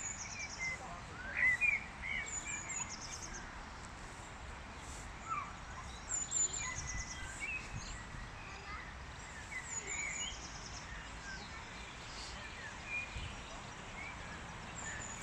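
Several songbirds chirping over a steady background hiss. One bird repeats the same short, high song every three to four seconds: a few quick falling notes followed by a fast trill.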